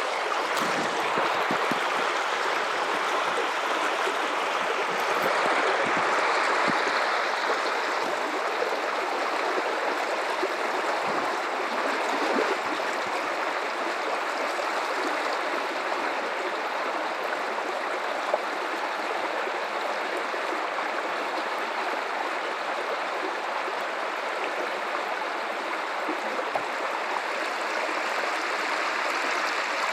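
Running river water flowing steadily and evenly, a continuous rush of water.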